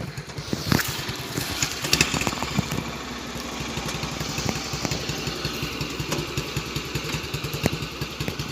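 Small tractor's motorcycle engine running steadily with an even pulsing beat, with a few sharp knocks in the first two seconds.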